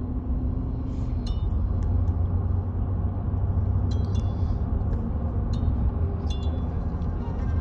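Steady low rumble of a car driving, heard from inside the cabin, with a few faint, irregular high clinks.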